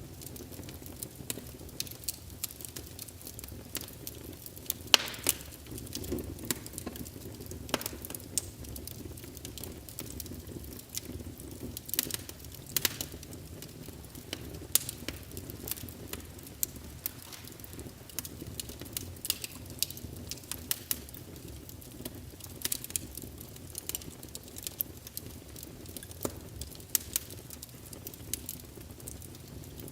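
Small wood fire in a fireplace crackling, with sharp pops several times a second over a steady low rumble.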